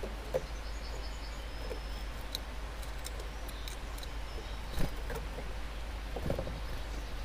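Garden bird-feeder ambience under a steady low rumble. A quick run of high bird chirps comes in the first two seconds. Great tits coming and going at the feeder make scattered light taps and two louder knocks, about five and six seconds in.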